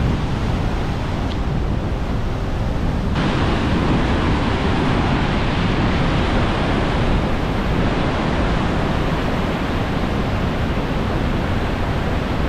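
Steady rushing of a large waterfall in heavy snowmelt flow, with wind buffeting the microphone; the sound shifts slightly about three seconds in.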